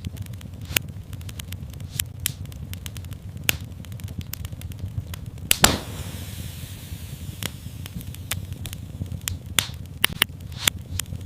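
Wood fire in a fireplace crackling: irregular sharp pops and snaps over a low steady rumble of the flames, the loudest pop about halfway through.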